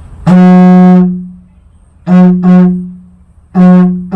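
Didgeridoo blown like a trumpet, the lips buzzing hard: loud horn-like toots on one steady note. There is one long toot, then two quick ones, then another long one near the end.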